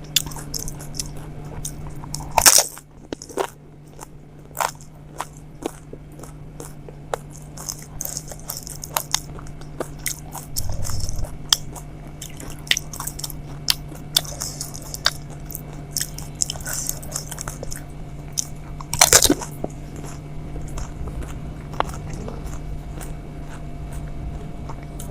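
Close-up eating sounds of pani puri (golgappa): the crisp hollow puris crunching and crackling as they are bitten, with chewing in between. There are two louder, longer bursts, one about two and a half seconds in and one near nineteen seconds in, over a steady low hum.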